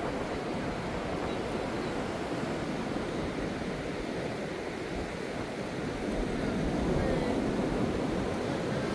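Ocean surf washing onto a sandy beach in a steady roar, swelling louder about six seconds in as a wave breaks.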